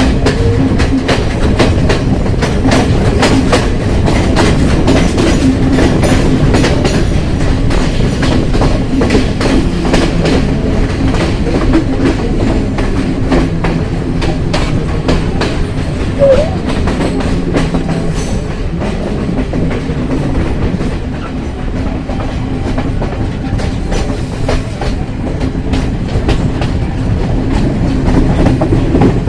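Train running along the track: its wheels clatter and click over rail joints above a steady low drone.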